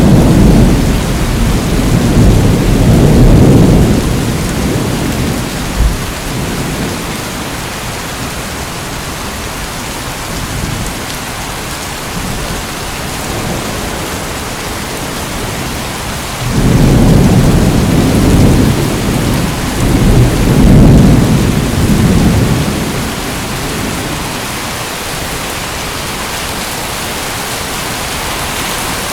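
Steady rain falling, with low rolling thunder. One rumble fades out a few seconds in, and a second long roll of thunder comes past the middle, lasting about six seconds.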